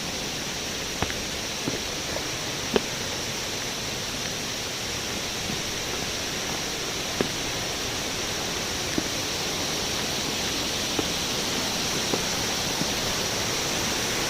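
Steady rush of water from a nearby waterfall and stream, growing slightly louder, with a few faint clicks.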